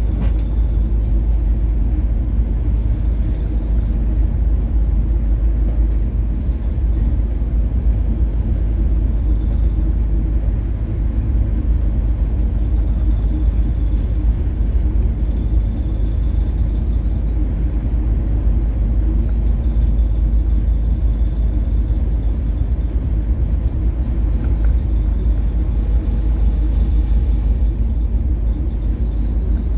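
Steady low rumble of a coastal cargo ship under way in rough seas, with the deep, even hum of its engine beneath.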